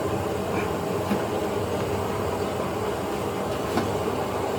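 Steady mechanical rumble and hum, with a few faint clicks.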